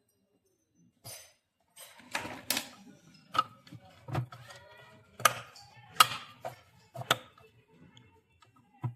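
Irregular clicks and knocks of plastic washing-machine parts being handled and fitted, about eight sharp strikes spread over several seconds, the loudest near the middle.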